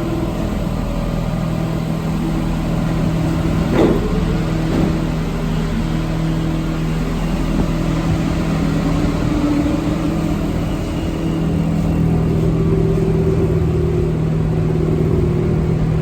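Interior of an Alstom NS-74 rubber-tyred metro car pulling away from a station: a steady traction hum with tones that rise as the train gathers speed, and a sharp knock about four seconds in.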